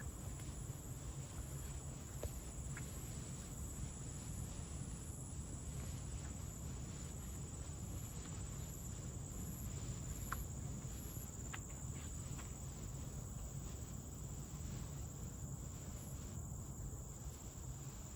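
A steady, even, high-pitched insect drone, with a few faint short chirps and a low rumble underneath.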